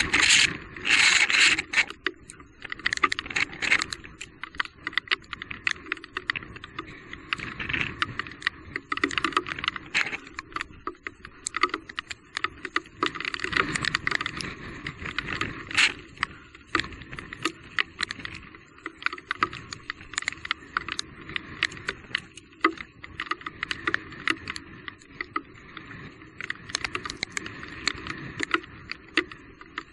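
Electric mountain bike rattling and clattering over rough trail ground: a dense, irregular run of clicks and knocks, loudest in the first couple of seconds.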